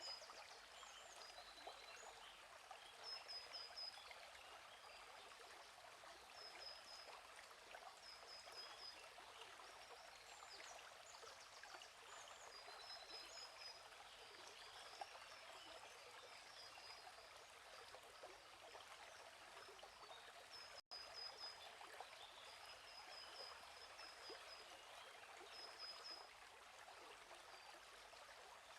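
Faint, steady babbling of a flowing stream, with a bird repeating a short high chirping phrase every couple of seconds. The sound cuts out for an instant about two-thirds of the way through.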